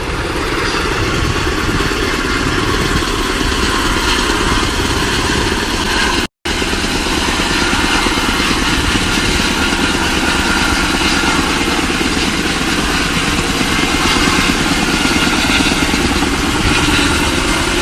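Helicopter running loud and steady, its rotor and engine giving a dense noise with a pulsing low chop. The sound cuts out completely for a moment about six seconds in.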